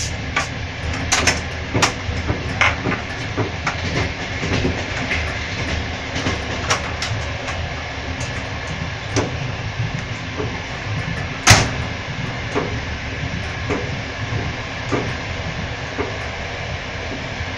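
Passenger train in motion, heard from inside the carriage: a steady rumble with irregular clicks and knocks from the wheels on the track, and one sharp bang about two-thirds of the way through.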